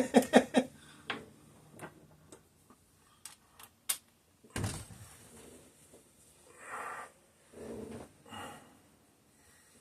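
Scattered light clicks of hand tools and small metal parts being handled, with a single louder knock about halfway through and some soft rustling after it.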